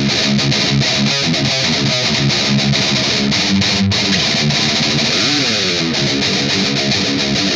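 Distorted electric guitar playing a rhythmic riff of chords and notes, with one note bent up and released about five seconds in.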